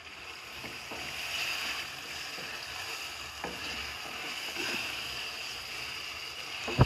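Raw chicken pieces being stirred with a spatula in hot oil and spice paste in a pot: a steady sizzling hiss with a few soft scrapes of the spatula, the meat frying dry before any water is added.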